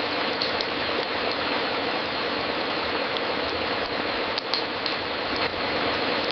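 Wood fire crackling in a fireplace: a steady hiss with scattered sharp pops, several of them close together about four to five and a half seconds in.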